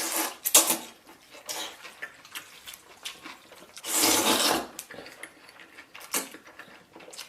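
A person eating instant noodles: two long, loud slurps, one at the start and one about four seconds in, with smaller chewing and mouth sounds between.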